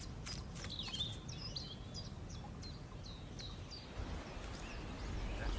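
Birds chirping: a run of short, high calls over a low, steady outdoor rumble, with a few faint clicks in the first second.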